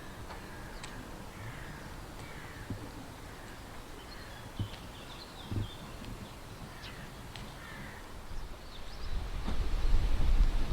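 Birds calling repeatedly in short, crow-like cries over outdoor background noise, with a few soft knocks midway and a low rumble that builds near the end.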